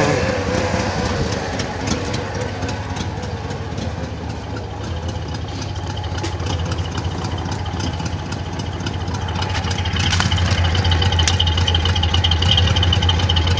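Chevrolet Monte Carlo engine idling steadily while it warms up after a cold start; it grows louder about ten seconds in, with a faint high whine joining.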